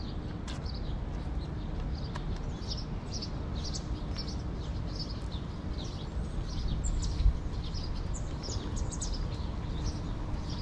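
Small birds chirping, many short high chirps a second, over a steady low outdoor rumble. A brief low thump about seven seconds in.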